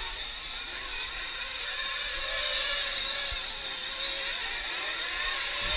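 Several small nitro RC truck engines screaming at high revs, their pitches wavering up and down as the trucks accelerate and brake around the track.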